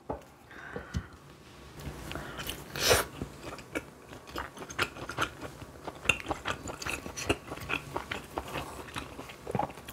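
Close-miked eating sounds of a person biting and chewing tteokgalbi, a grilled minced-meat patty: many small irregular mouth clicks, with a louder bite about three seconds in.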